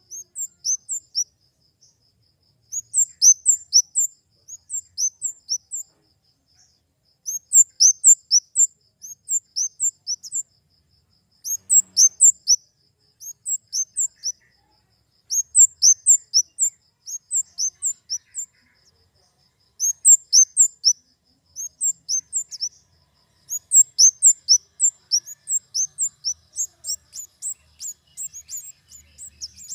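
Flowerpecker (kemade) calling: quick runs of very high, short, downward-sweeping notes, several to a run, repeating every second or two.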